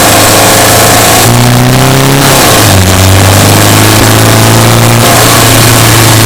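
Subaru Impreza Sport's boxer engine running while the car is driven, its pitch rising about a second in, dropping a little later and shifting again near the end as engine speed changes.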